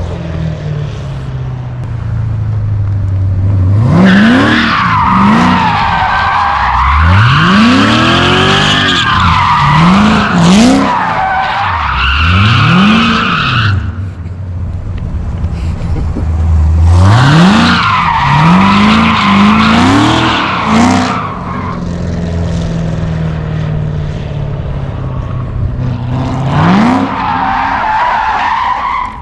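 Turbocharged 4.8-litre LS V8 truck engine idling, then revved hard several times, the pitch sweeping up and down quickly, with a high whine rising and falling along with the revs. The engine stalls at the very end.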